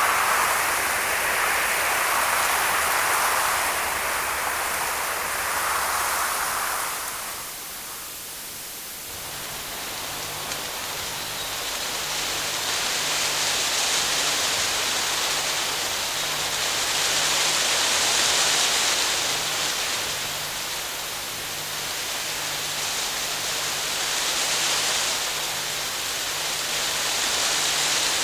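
Wind sound effects. A gusting wind swells and eases, then fades out about seven seconds in. A second, higher and hissier wind follows, rising and falling in slow gusts.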